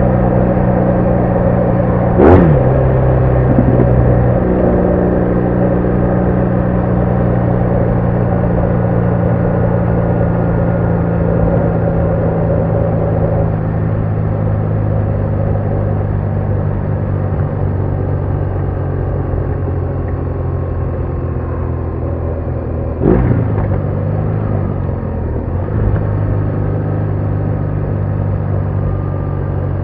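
BMW R1200R boxer-twin motorcycle engine running steadily on the move, its note slowly easing down in pitch. Two short, loud events break in, about two seconds in and again near twenty-three seconds, each dropping quickly in pitch.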